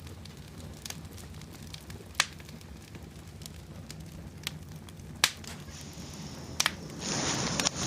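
Campfire crackling, with a few sharp pops of burning wood over a low steady rumble, and a louder hiss of the flames setting in near the end.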